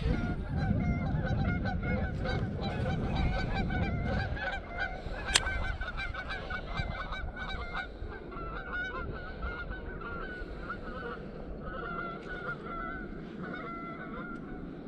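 A flock of geese honking over and over, many calls overlapping, with a low rumble under them for the first four seconds or so.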